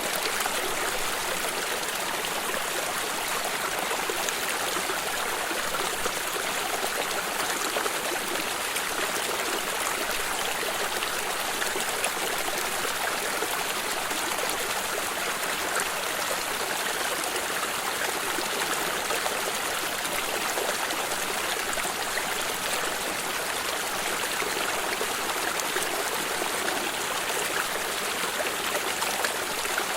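Stream water flowing and trickling steadily, with a constant rush and fine splashing.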